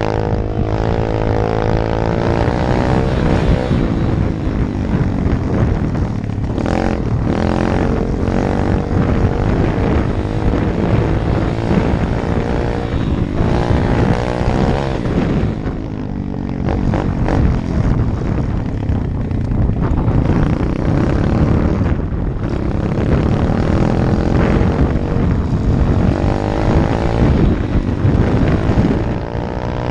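A 125 cc Apollo dirt bike's engine running under way, revs rising and falling as the rider works the throttle, with short drops in the sound every few seconds.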